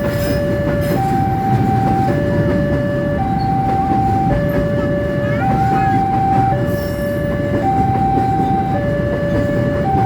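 A long train rumbling past while a level-crossing warning alarm sounds, two steady tones alternating high and low about once a second.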